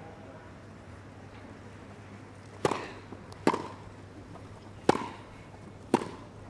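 Tennis ball struck back and forth with rackets in a rally: four sharp hits about a second apart over a low, steady background.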